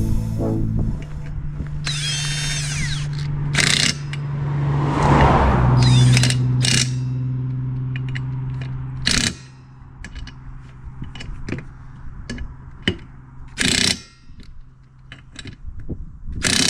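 A motor runs steadily with squeaks and mechanical ratcheting, swelling louder about five seconds in and cutting out about nine seconds in. Scattered sharp clicks follow.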